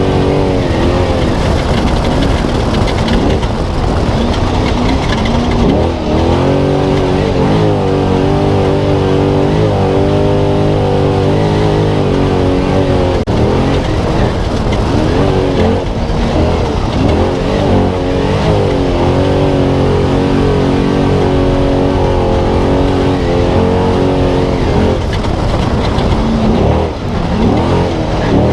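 Onboard sound of a Spec Trophy Truck's V8 engine running hard, its pitch repeatedly rising and falling as the throttle and revs change, over a constant loud rush of noise.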